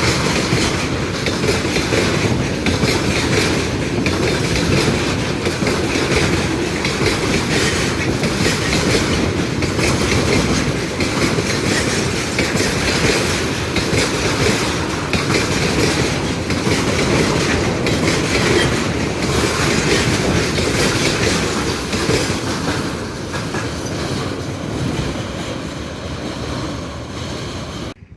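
A train rolling past, its wheels clattering steadily over the rail joints. The sound eases a little near the end and then cuts off suddenly.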